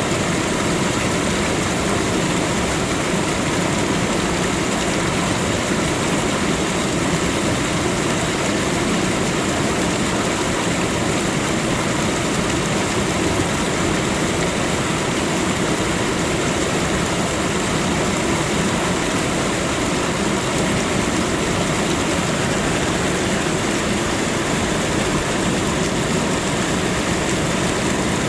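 Waterfall: a continuous, steady rush of falling water.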